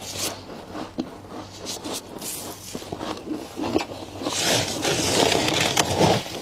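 Freezer frost being scraped: a crunchy rasping made of many sharp clicks, with a longer, louder scrape from about four seconds in until near the end.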